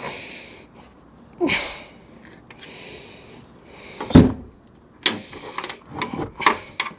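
Jeep XJ door being worked on its hinges during a hinge pin and bushing job: a short scrape, then a heavy clunk about four seconds in, followed by a quick series of metal clicks and knocks.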